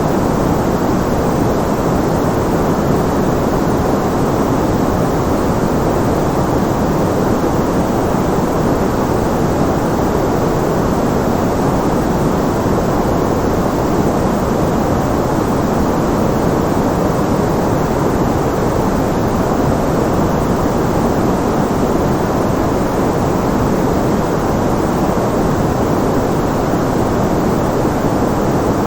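Steady, unchanging synthetic white-noise background: an even, low-pitched hiss with little treble and no rises, falls or breaks.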